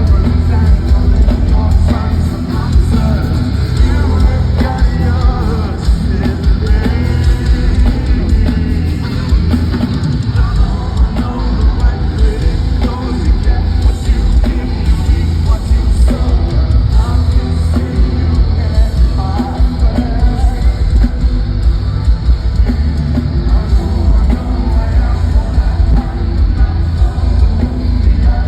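Live rock band playing loudly with heavy drums and bass under a sung vocal line, recorded from the crowd on a phone.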